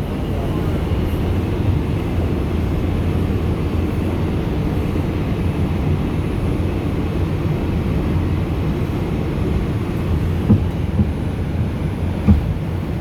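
Steady low rumble inside an R142 subway car, with a couple of faint knocks near the end.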